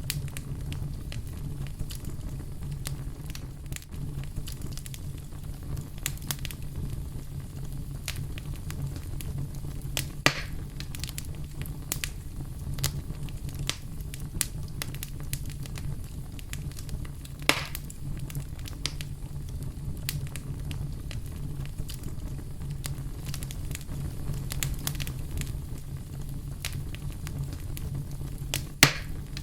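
Wood campfire burning with a steady low rumble and frequent sharp crackles, with three louder pops, the last one near the end.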